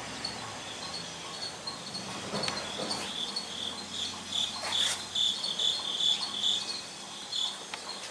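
Insects chirping: a quick run of short, high chirps repeating, loudest in the middle few seconds, with a few faint clicks.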